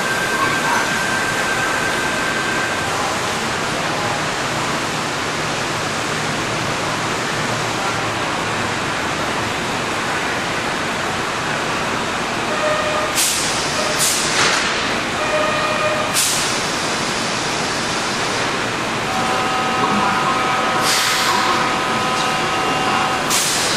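Electric commuter trains standing at a station platform, with a steady rushing noise from their running equipment. In the second half come several sharp hisses of compressed air being let out, and some short, flat electronic tones, the last of them held for a few seconds near the end.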